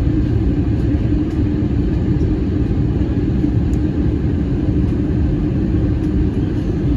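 Airbus A321-200 in flight, a steady low rumble of engines and airflow with a constant hum running through it.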